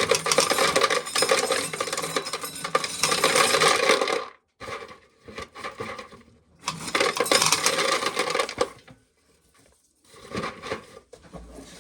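Corn sheller at work, shelled corn kernels clattering down into a pail in dense spells with sparser rattling between them.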